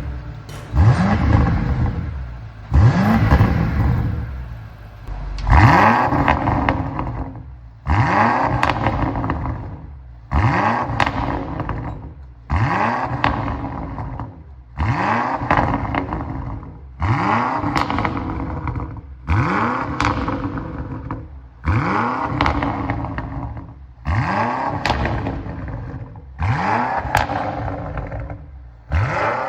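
BMW X6M (F96) twin-turbo 4.4-litre V8 breathing through an FI Exhaust full system (cat-back and secondary downpipes), revved in short blips over and over. There are about a dozen of them, roughly one every two seconds, each jumping up sharply and dying away within about a second and a half.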